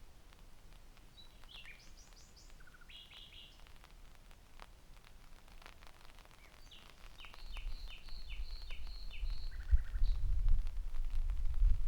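Common nightingale singing: a quick phrase of varied notes, then after a pause a run of about nine fast repeated notes ending in a lower trill. A low rumble builds up in the second half and grows louder near the end.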